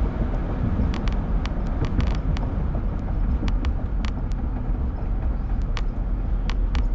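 A car driving, heard from inside: a steady low rumble of road and engine noise, with scattered sharp clicks.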